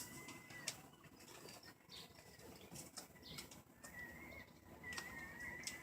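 A seagull faintly flapping its wings, with a few light taps.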